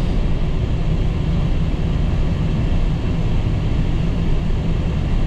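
Dump truck engine running steadily while the truck is driven, a continuous low rumble.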